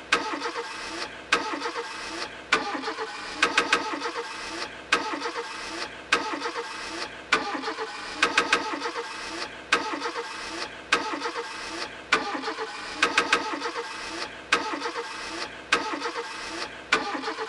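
A sample of a car engine being cranked and started, chopped and looped so that it repeats about every 1.2 seconds with abrupt cuts in between, as the intro of a jersey club track built from engine sounds.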